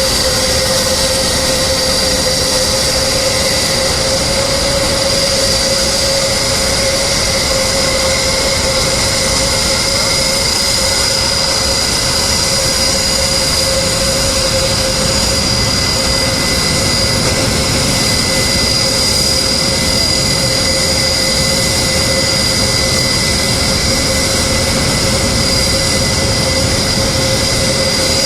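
Jet aircraft engine running steadily: a loud, even rush with a steady high whine that neither rises nor falls.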